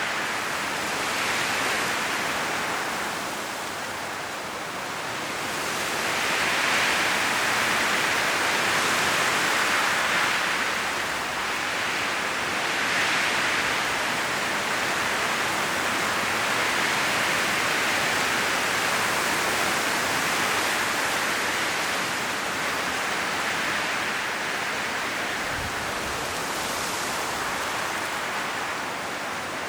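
Strong wind blowing through forest trees, rustling their autumn leaves in a steady hiss that swells and eases in gusts every few seconds. A brief low thump comes near the end.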